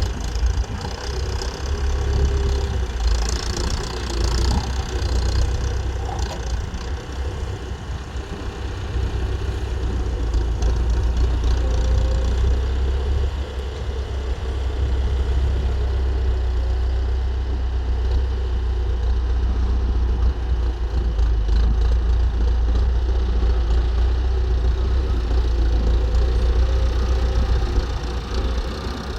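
Tractor engine running steadily, its loudness rising and falling a little as it works.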